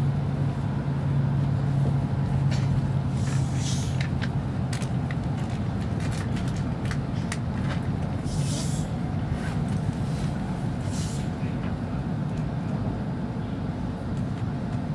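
Running noise aboard a W7 series Shinkansen train: a steady low rumble with a humming tone that fades about three seconds in, and scattered short hisses and clicks.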